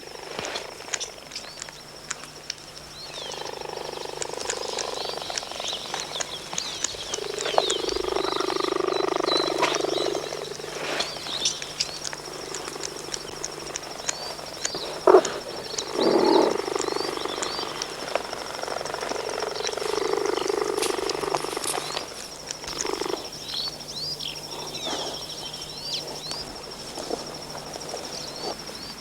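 Wild animal calls: croaking calls in several stretches of a couple of seconds each, over many short high chirps and a steady thin high whine.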